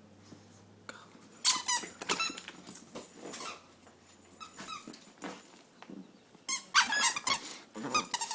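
Squeaky dog toy squeaked in quick runs of short, high-pitched squeaks: one run about a second and a half in, and a louder one from about six and a half seconds to the end.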